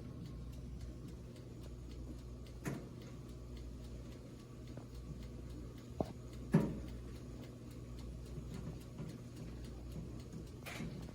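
Steady low hum from the Elite Gourmet ETO2530M toaster oven, whose convection fan is loose, with a few scattered clicks and knocks; the sharpest knock comes about six and a half seconds in.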